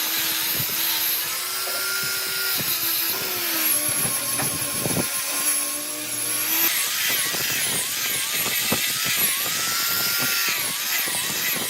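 Electric power tool motor whining, its pitch sagging and recovering again and again as it is loaded in the wood, with scattered ticks.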